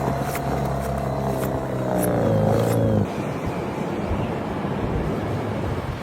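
An engine running steadily, its pitch sagging slightly before it cuts off about halfway through; then a steady rushing noise.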